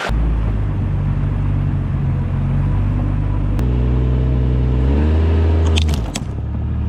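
A motor vehicle engine running with a low, steady drone. Its pitch steps up twice in the middle, then falls back about six seconds in, with a few clicks as it drops.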